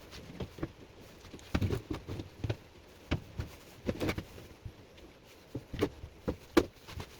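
Handling noise on a workbench: scattered light taps, knocks and clicks at irregular intervals, the loudest about a second and a half and four seconds in.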